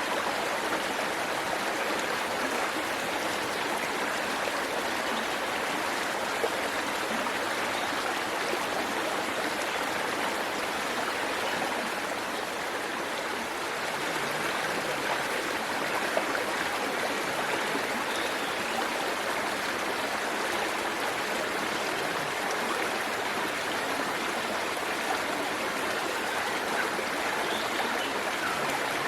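Waterfall running steadily: an even, unbroken rush of falling and splashing water.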